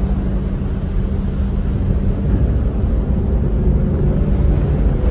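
The ferry Armorique's engines running with a steady low drone and hum as the ship docks.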